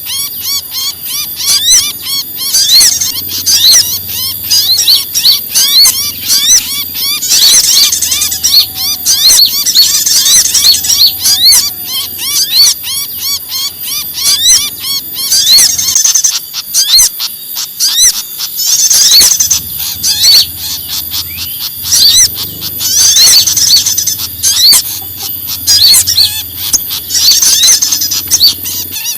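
Bird-lure recording of several small songbirds calling in agitation at once, such as prinias and fantails: a dense, unbroken chatter of rapid, high, squeaky chirps and short rising notes that overlap throughout, with a faint low hum underneath.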